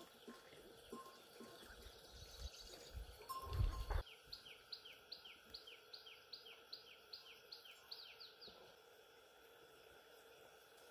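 A bird calling a fast run of short, high, falling notes, about three a second, for some five seconds starting about four seconds in. Before it comes low rumbling noise ending in a thump.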